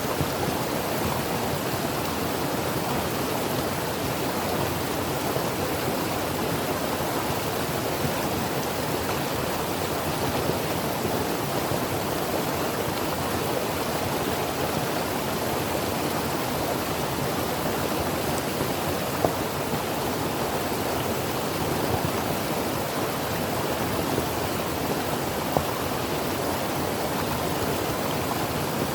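Creek water flowing and rushing over rocks: a steady, even rush.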